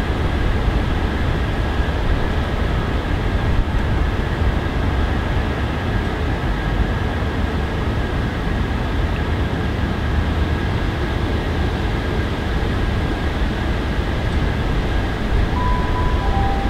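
Steady rumble of trains running on the main line. Near the end comes a short two-note horn, a higher note then a lower one, typical of a High Speed Train's horn.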